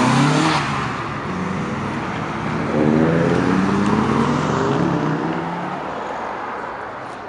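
Cars driving off one after another. A Renault Clio passes close by at the start, its engine note dropping as it goes. Then an Audi TT RS accelerates hard away, its engine note rising for about two seconds before fading.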